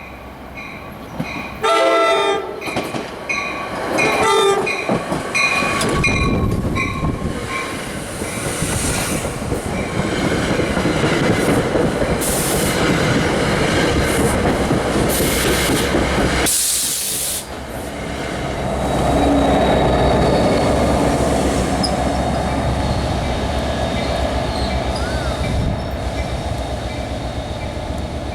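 A train horn blasts, loudest about two seconds in and again about four seconds in, over a repeating ringing. Then the train runs past with a long rumble of wheels on rail and brief high squeals from the wheels in the middle.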